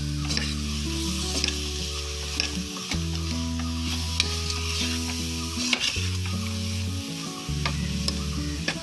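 Chopped onions and tomatoes sizzling in hot coconut oil and spice powders in an aluminium pressure cooker, stirred with a metal spoon that scrapes and clicks against the pot several times. Soft background music with long held low notes plays underneath.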